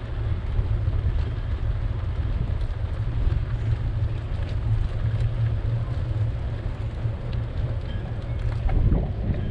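Wind buffeting the microphone of a moving bicycle, a steady deep rumble with the hiss of the ride over it and a few faint ticks.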